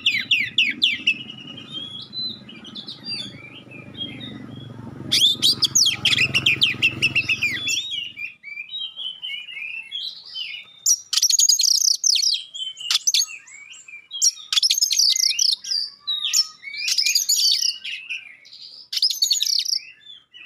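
Oriental magpie-robin (kacer) singing in loud bursts of rapid, sharp chirping notes, a new phrase every couple of seconds.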